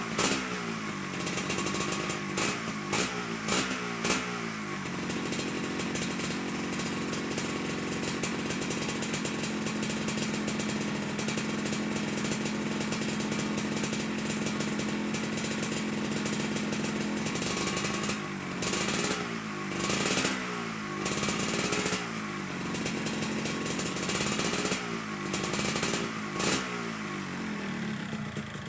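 Yamaha RXZ 135's two-stroke single-cylinder engine warming up with a leaking exhaust. The throttle is blipped in quick revs, then it idles steadily for about twelve seconds before another series of revs.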